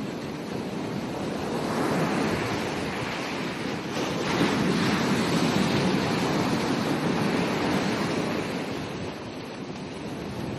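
Ocean surf washing onto a beach: the rush of water swells about two seconds in, swells louder again around four seconds and holds for a few seconds, then eases off near the end.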